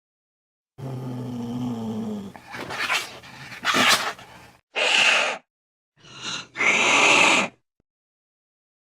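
Angry cat growling low, then hissing and spitting in several sharp bursts, the sound of a cat threatening.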